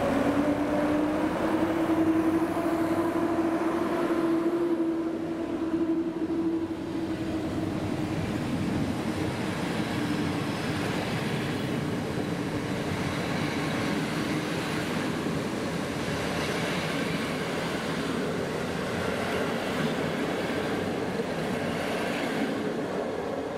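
PKP EP07 electric locomotive pulling away with its passenger train: a motor whine rises in pitch in the first second, then holds steady and fades as the coaches roll past on the rails. The noise drops away near the end as the last coach passes.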